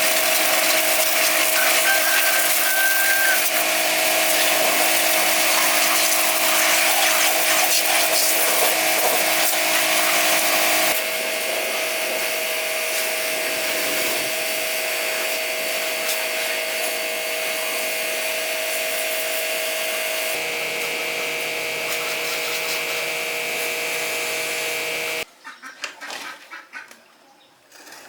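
A power tool running steadily with a hiss and a fixed whine. Its sound shifts and drops a little about eleven seconds in, and it cuts off near the end, leaving a few light metallic clicks and clinks.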